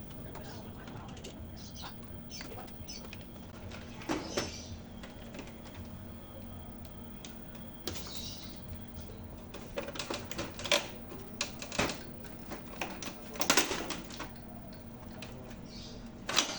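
Irregular sharp clicks and knocks, bunched around the middle and later part, over a steady low hum.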